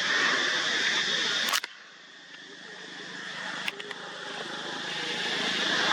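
Steady outdoor hiss of background noise, cut by a sharp click about a second and a half in, after which it drops away and slowly swells back, with another small click a couple of seconds later.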